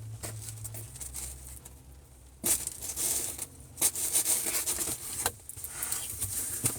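Irregular rustling and crinkling handling noises in short bursts, some starting sharply, over a faint low steady hum.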